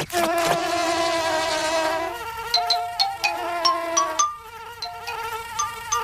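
Cartoon insect buzzing sound effects: a wavering pitched buzz for about two seconds, then a run of shorter buzzing tones stepping up and down in pitch, with quick high chirps between them.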